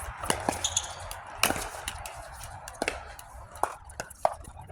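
Pickleball rally: a plastic ball struck by paddles and bouncing on the court, heard as a handful of sharp, irregularly spaced pops, the loudest about a second and a half in.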